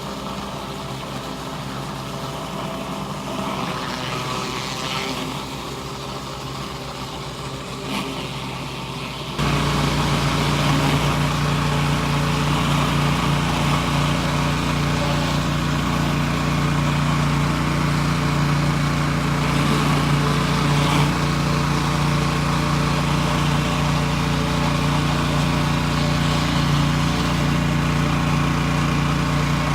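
Gas pressure washer engine running steadily. About nine seconds in the sound jumps suddenly louder, with more hiss, and holds there.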